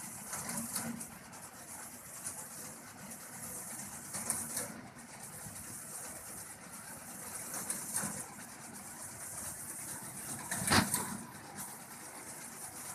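Tractor engine running steadily while driving a reaper binder, with a few swells in level and one loud sudden noise near the end.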